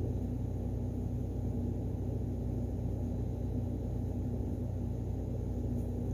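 Steady low hum of room background noise, with a faint steady tone held throughout and no sudden sounds.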